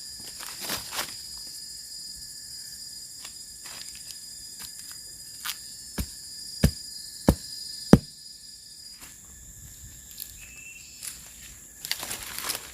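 Steady high-pitched drone of garden insects, with four sharp knocks about two-thirds of a second apart around the middle and some light rustling near the end.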